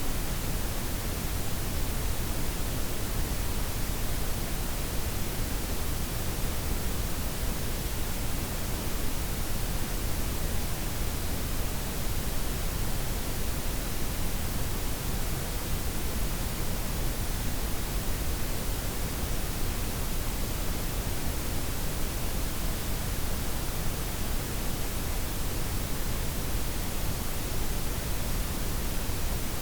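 Steady synthetic noise: a blended layer of white, pink and brown noise, with the highs softened and the most energy in the deep lows, even and unchanging throughout.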